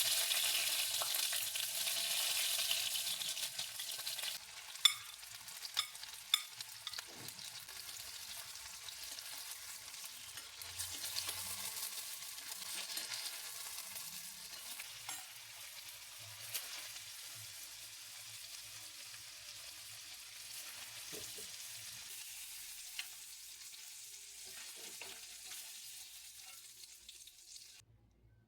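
Food sizzling in hot oil in a pan, loudest just after it goes in and then settling to a softer steady sizzle that slowly fades, with a few sharp taps of a utensil against the pan along the way.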